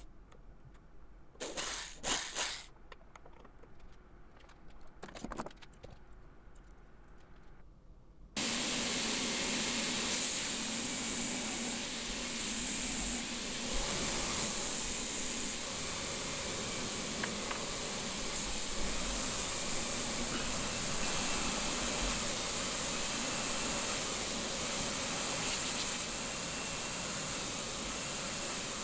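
A few faint clicks. Then, about eight seconds in, a steady hissing noise starts suddenly and runs on evenly, with a faint hum under it.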